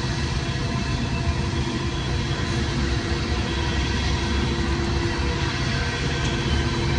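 Diesel-hauled freight train climbing upgrade, a steady rumble of working locomotives and rolling cars with steady tones ringing over it.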